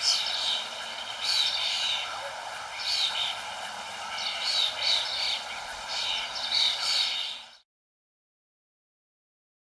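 Small birds chirping in short repeated bursts, roughly one every second or so, over a steady background hiss. The sound cuts off abruptly about seven and a half seconds in, leaving dead silence.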